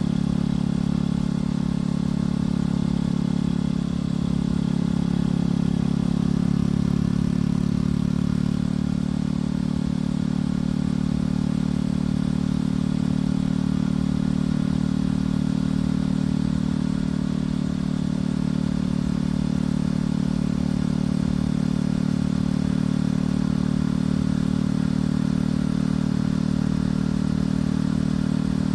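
Motorcycle engine and exhaust running at a steady cruise, holding an even pitch with no revving or gear changes.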